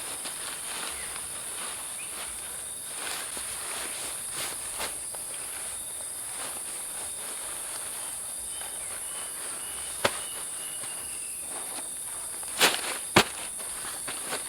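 Steady high-pitched chorus of forest insects, with a few sharp knocks or snaps, the loudest about ten seconds in and two more near the end.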